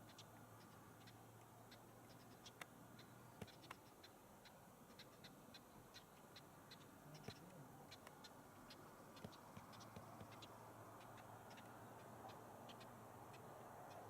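Near silence: faint outdoor background with a steady low hum and scattered small ticks, several a second.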